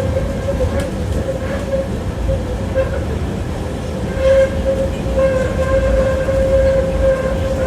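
Tram running along its line: a steady rumble with the wheels clattering over rail joints in a few sharp clicks, and a steady whine that fades in the middle and comes back.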